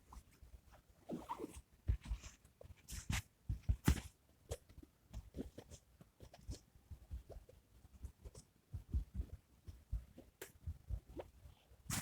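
Wood fire crackling: irregular pops and snaps of burning wood, some sharper and louder than others.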